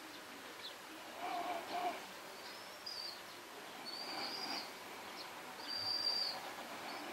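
A bird calling: three short, high chirps a second or two apart, over faint room noise.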